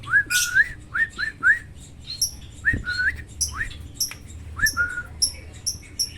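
Pet sooty-headed bulbul chirping: short rising whistled notes, often in quick runs of two or three, mixed with sharp high chirps.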